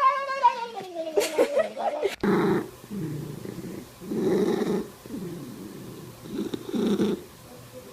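A cat yowling in a long, wavering meow that slides down in pitch, then, after a cut, a cat purring loudly in breath-by-breath bursts about every two seconds.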